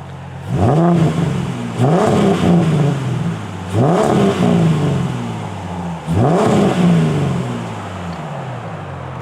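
A car engine revved four times, each time rising sharply in pitch and then falling back. After the last rev it settles to a steady idle.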